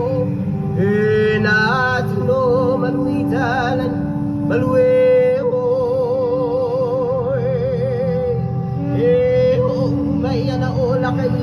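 Music: a voice singing long held notes with heavy, regular vibrato over a steady held lower tone.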